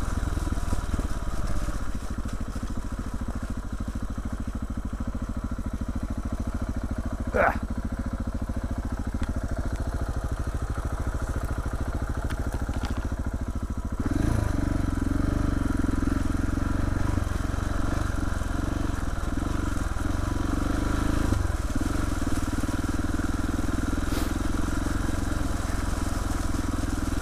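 KTM 690 Enduro R's single-cylinder four-stroke engine running steadily at low revs, with one short sharp sound about a third of the way in. About halfway through it gets louder and stays louder, as if the throttle opens and the bike pulls on.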